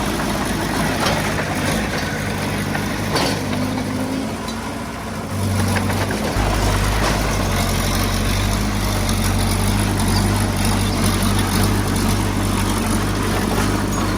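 Diesel engine of heavy earthmoving equipment running steadily, then turning deeper and louder between about five and six seconds in, as it comes under more load or throttle, and holding there.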